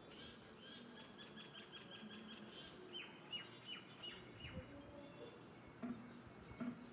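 Faint bird chirping: a quick run of short, even chirps, then a few falling notes. A couple of soft knocks come near the end.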